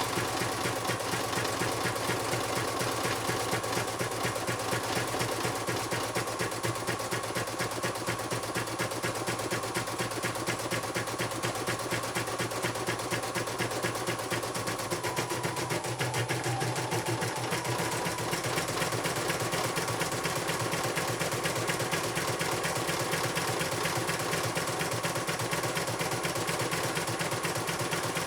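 CNY computerized embroidery machine stitching at speed: a steady, fast, even needle rhythm over a motor hum, with a brief shift in its tone about halfway through.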